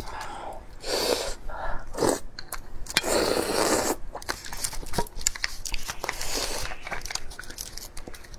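Close-up eating: a person biting into and chewing crunchy food, with irregular crunches and a few sharp clicks.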